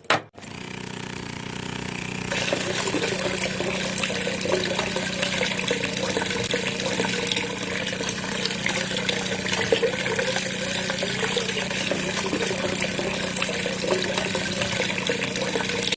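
Small electric motor of a homemade mini water pump running with a steady hum, with water splashing and pouring from about two seconds in.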